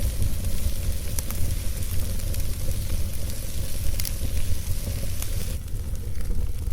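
Campfire burning: a steady hiss of burning wood with a few sharp crackles and pops, the clearest about a second in and about four seconds in. A constant low rumble runs underneath, and the hiss thins out near the end.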